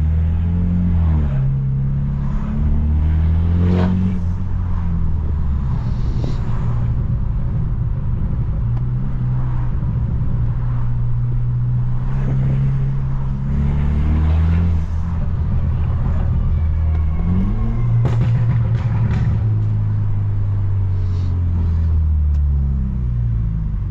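Tuned BMW F30 328i's turbocharged four-cylinder engine and loud exhaust heard while driving. The engine note repeatedly climbs and then drops as the car accelerates and shifts, with a few short sharp cracks.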